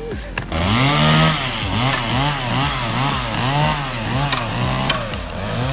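Chainsaw engine running under load while cutting, starting about half a second in. Its pitch rises and falls about twice a second as the chain bites into the wood and frees up again.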